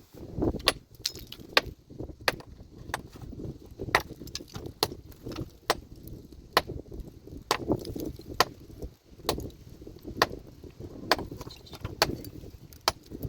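A metal hand tool striking rock over and over, a sharp clinking blow about once a second with smaller clinks between, as stone is broken up.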